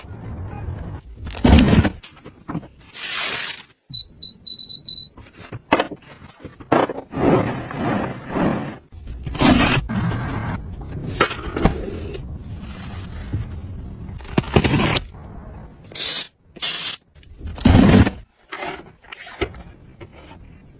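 Close-up handling of household gadgets and their packaging: a string of short scrapes, rubs and knocks, with a quick run of high electronic beeps about four seconds in.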